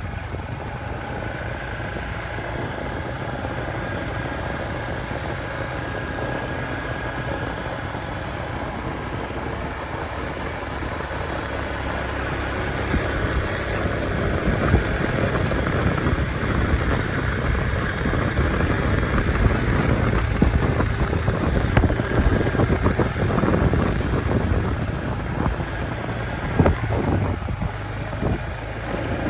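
Motorcycle engine running with wind buffeting the microphone; the sound gets louder and rougher about halfway through, with irregular knocks and rattles.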